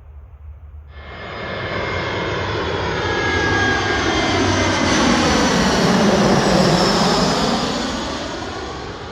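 Airbus A320-family jet airliner passing close overhead on its landing approach. The engine noise cuts in abruptly about a second in, builds with a high whine to its loudest about two-thirds of the way through, then fades.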